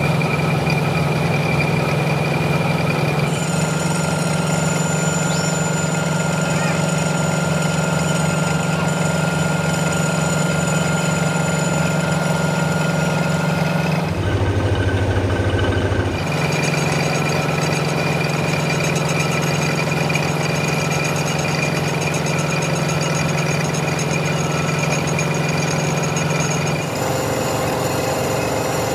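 Metalworking machine running with a steady, loud hum and a few steady higher tones, typical of a lathe or similar machine-tool motor under way. The sound changes abruptly a few times: about three seconds in, around fourteen and sixteen seconds, and near the end.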